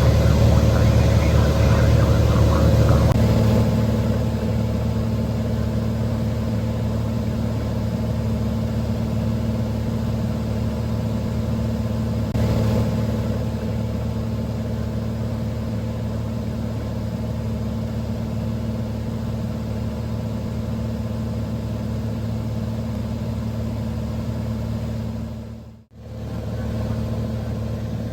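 Cessna 182's single piston engine and propeller droning steadily, heard inside the cabin. It gets a little quieter about four seconds in, and cuts out for a moment near the end.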